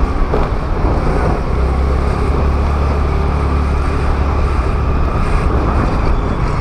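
Honda Activa scooter on the move: engine running steadily under a constant low wind rumble on the microphone, with road and traffic noise.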